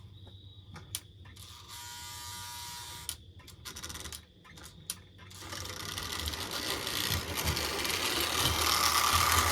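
A few light clicks of the toy cars being handled, then, about five seconds in, a Lionel O-gauge toy train's electric motor and wheels start up, whirring and rumbling on the track and growing steadily louder.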